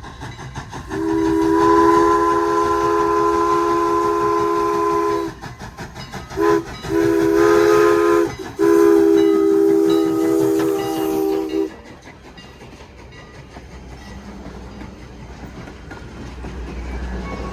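A train's multi-note chime sounding the grade-crossing signal: a long blast, a short one, then a final long blast, followed by the low rumble of the train as it comes closer.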